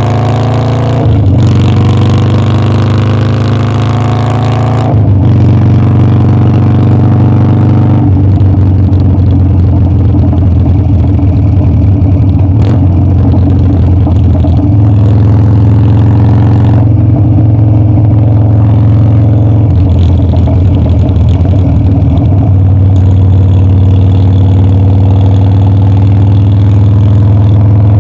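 Harley-Davidson Dyna's V-twin engine under way, pulling up in pitch through the gears with upshifts about a second in and about five seconds in, then running steadily at cruising speed.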